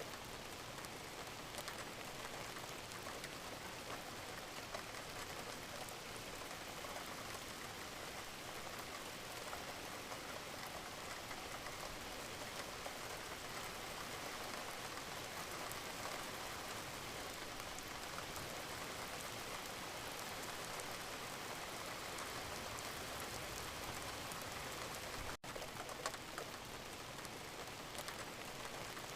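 Wood fire burning in a fireplace: a steady hiss with many small crackles and pops. The sound drops out for an instant about 25 seconds in, followed by a slightly louder pop.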